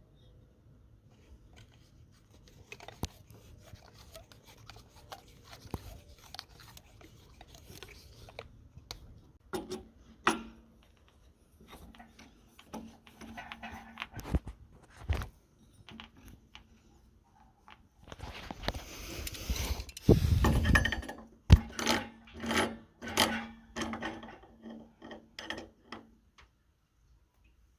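Hand tools and metal fittings being handled during plumbing work: scraping, rubbing and scattered knocks, busiest with a run of sharp clinks and knocks in the last third. A faint low steady hum sits under the middle and later part.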